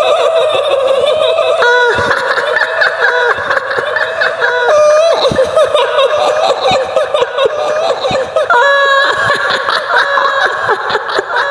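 Shrill, high-pitched woman's cackling laugh in the manner of the kuntilanak ghost of Indonesian folklore: long held notes broken by quick wavering 'hihihi' runs, jumping up in pitch about two seconds in and again near the end.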